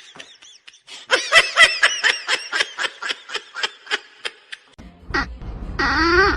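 Laughter in a quick run of short pitched bursts, about five or six a second, that tails off. Near the end, over a steady low background hum, come a short call and a longer one that rises and falls in pitch.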